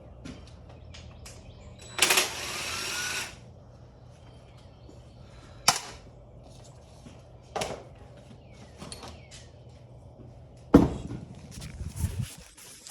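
A power tool runs in one short burst of about a second, among separate knocks and clanks of metal tools and parts being handled. The loudest knock comes near the end, followed by a short clatter.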